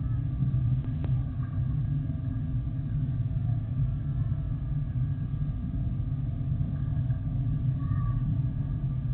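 Boeing 767-300F freighter's jet engines at go-around power, a steady low rumble with a faint whine above it.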